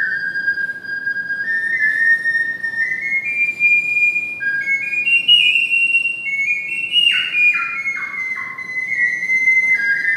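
Triple ocarina playing a slow melody in a high, pure whistling tone. It climbs step by step, with two notes sounding together for a moment, then makes a run of quick downward slides about seven seconds in before settling back.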